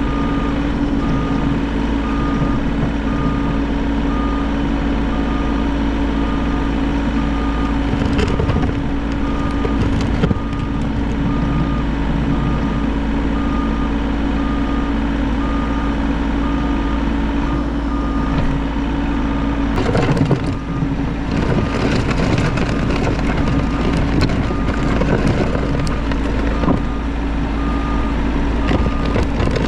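Bobcat E50 compact excavator's diesel engine running steadily, with its travel alarm beeping about once a second, and a few knocks and scrapes as it works.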